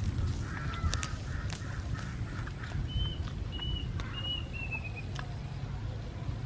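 Bird calls: a rough wavering call early on, then four short high whistled notes between about three and five seconds in. Under them runs a steady low rumble with a few sharp clicks.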